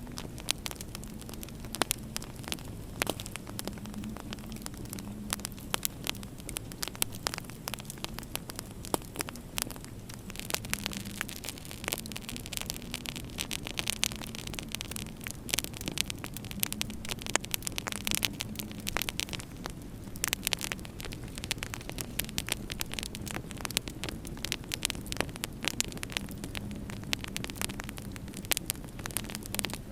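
Wood fire crackling in a fireplace: many irregular sharp pops and snaps over a steady low hum and hiss, the hiss swelling for a while in the middle.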